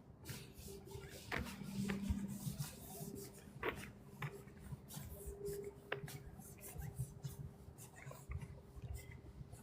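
Footsteps rustling and scuffing through dry fallen leaves on a trail, with a few sharp snaps.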